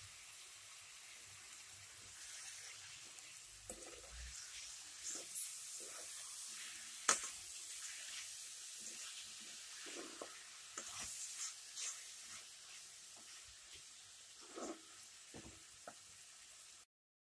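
Chopped onions, tomatoes and green chillies sizzling in a metal kadai while a plastic spatula stirs them, scraping and tapping the pan now and then, with one sharp tap about seven seconds in.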